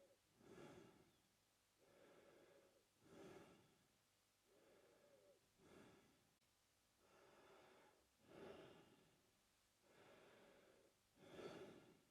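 A man breathing slowly and softly through his mouth, about five breaths, each a steadier airy phase followed by a shorter, louder one, one cycle every two and a half seconds or so.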